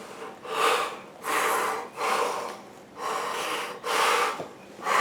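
A man breathing hard in and out through a sheet of furnace-filter material held over his mouth and nose as a test mask: about five loud, rushing breaths in quick succession, with short pauses between.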